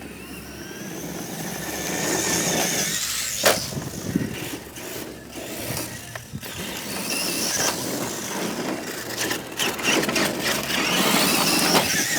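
A heavy vehicle's engine running and swelling in loudness, with a sharp crack about three and a half seconds in.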